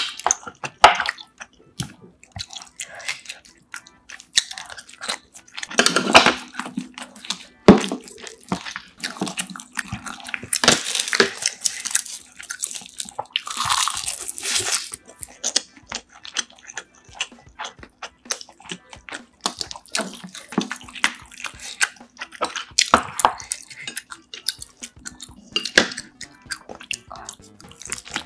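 Close-miked eating: chewing and wet mouth sounds, with short clicks and taps of a spoon and chopsticks, and a few louder moist bursts.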